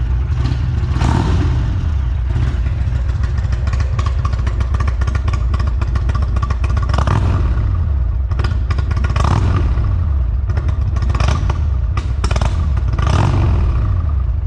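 Indian Thunderstroke 116 V-twin of a Chieftain Elite with Rinehart exhaust, idling with about six quick throttle blips, each pitch rising and falling back. The later blips come closer together.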